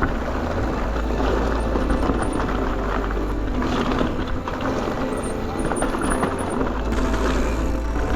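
Wind buffeting the microphone over the rattle and tyre noise of a mountain bike on a fast trail descent.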